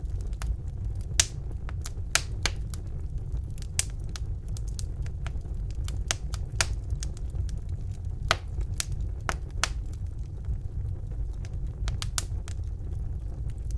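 Wood fire burning in a fireplace: irregular sharp crackles and pops over a steady low rumble of the flames, with one louder pop about a second in.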